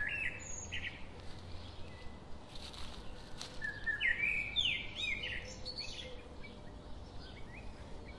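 Songbirds calling in quick series of short, high chirped notes, one flurry at the start and a longer one about four seconds in.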